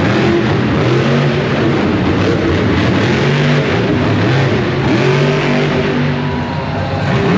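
Monster truck supercharged V8 engines revving hard, the pitch climbing and dropping over and over against a dense, loud roar.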